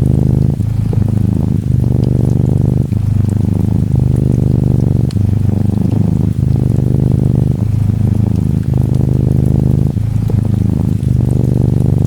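Norwegian Forest Cat kitten purring close and loud, a low rumble that breaks and restarts about every second with each breath in and out. Faint light ticks of rain behind it.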